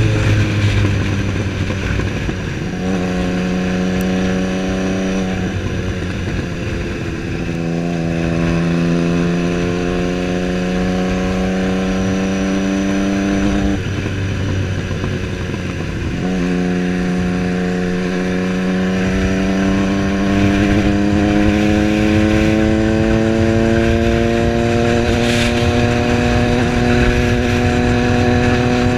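Triumph Street Triple's three-cylinder engine running under way, its pitch climbing slowly as the bike gathers speed. The tone breaks three times, about a second in, around six seconds in and about fourteen seconds in, as the throttle is eased or a gear changed, before a long steady pull to the end.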